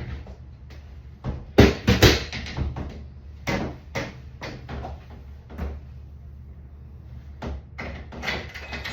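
Knocks and rattles of a shower door and its frame being handled and worked loose, with two loud knocks about one and a half and two seconds in and lighter ones scattered after.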